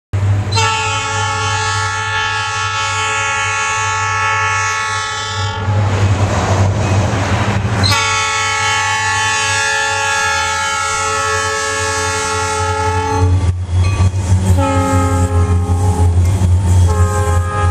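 Diesel locomotive air horn sounding a chord in the grade-crossing pattern: two long blasts, a short one, then a long one starting near the end, over the steady low rumble of the passing Wisconsin Southern SD40-led freight train.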